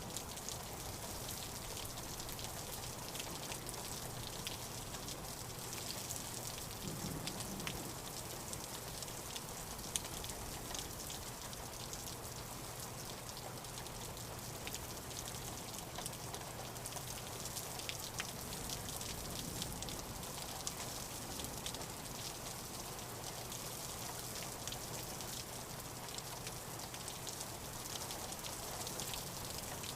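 Steady rain falling, with many short sharp ticks of individual drops scattered through it.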